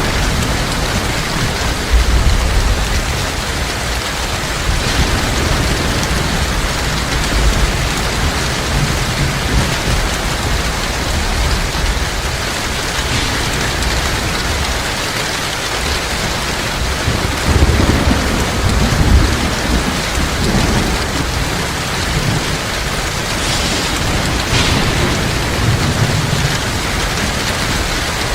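Heavy rain falling steadily, with low rolls of thunder rumbling underneath, the longest about two-thirds of the way through.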